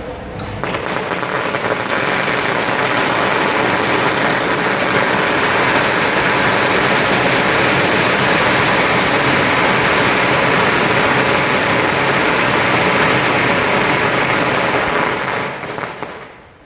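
Electronic firecracker machine firing a long, rapid string of crackling bangs. It starts about half a second in, runs on steadily, and dies away near the end.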